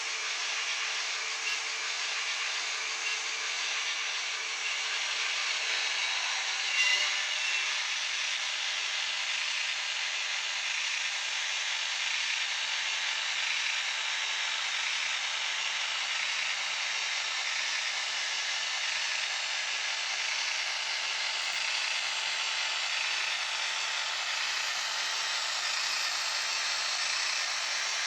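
N-scale Fleischmann 'Taigatrommel' model diesel locomotive pulling tank wagons, running steadily along the track with an even, hiss-like noise and a brief louder blip about seven seconds in.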